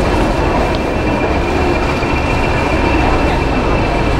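Passenger train running slowly along a station platform, heard from a carriage: a steady rumble of the wheels on the rails with a thin, steady high whine over it.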